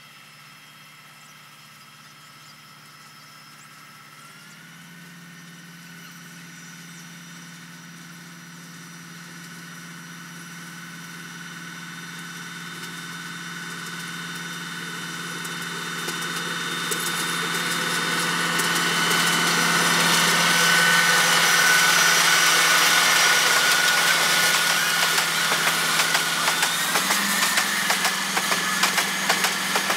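Diesel-hauled express passenger train approaching and passing: the locomotive's engine drone grows steadily louder, its pitch stepping up slightly about four seconds in. Near the end, as the coaches roll by, quick repeated clacks of wheels over rail joints.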